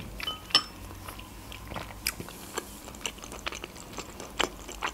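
Close-up chewing of a mouthful of soft food: irregular wet mouth clicks and smacks, a few of them sharper than the rest.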